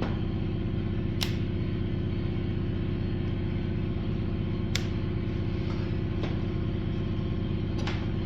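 Low-compression MTD two-stroke engine running at a steady speed on an experimental gas-and-oil mix, with a few sharp clicks over it. The engine is just about staying running as the fuel ratio is brought closer to right.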